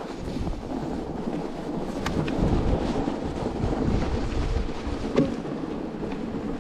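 Strong blizzard wind buffeting the microphone: a steady, gusting low rumble, with a couple of short sharp knocks about two and five seconds in.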